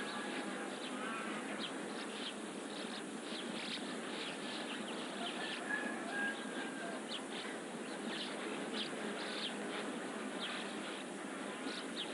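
Small birds chirping in short, irregular calls, with a few brief whistled notes, over a steady outdoor background hiss.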